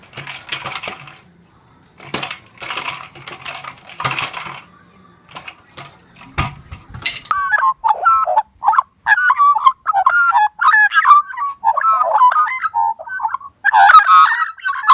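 A bird calling loudly in a rapid string of short calls that bend up and down in pitch, starting about halfway through; before that, scattered rustling and clattering.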